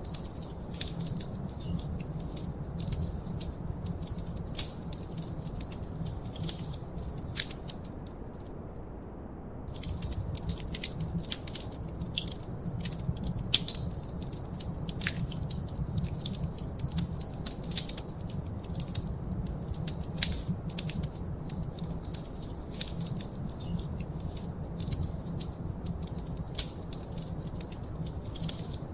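Wood fire in a fireplace crackling: a dense, irregular run of small sharp pops and snaps over a steady low rumble of the flames. The crackles drop out for about a second roughly eight seconds in, then carry on.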